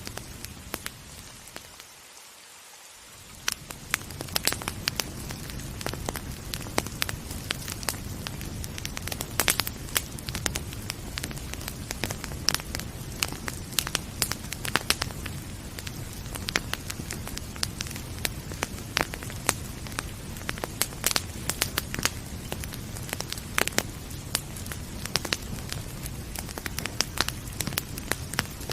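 Fireplace fire crackling with frequent sharp pops over a steady low rumble, with gentle rain mixed in. The sound briefly drops away and fades back in about two to four seconds in.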